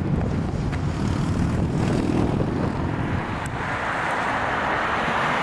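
Low vehicle rumble that gives way, about three and a half seconds in, to a steady rushing hiss.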